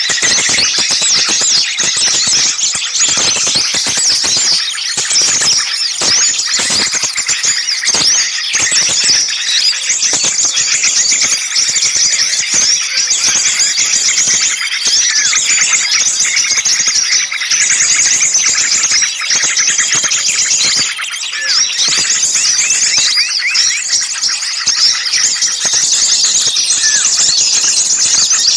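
A dense chorus of many small songbirds chirping and trilling at once, high-pitched and unbroken: a noisy, agitated mix of small-bird calls used as a lure recording to draw birds in.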